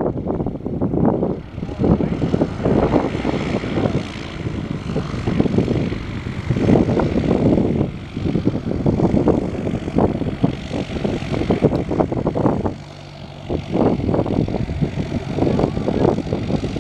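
Light single-engine piston propeller plane's engine and propeller running, the sound surging and fading unevenly.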